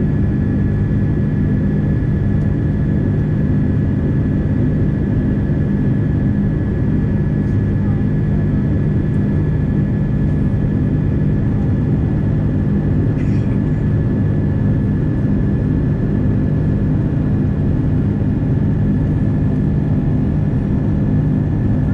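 Airbus A330-300 airliner's jet engines running steadily: an even low rumble with a thin, steady high whine.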